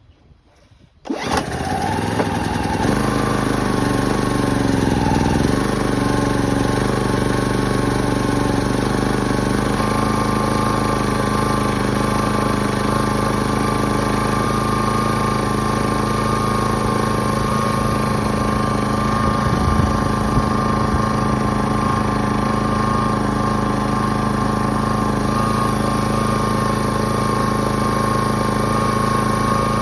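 Portable engine generator starting about a second in and then running steadily, its note settling over the first few seconds.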